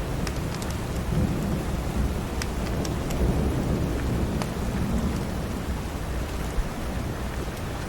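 Steady heavy rain with a low, rolling rumble of thunder underneath, and scattered sharp crackles from a wood fire.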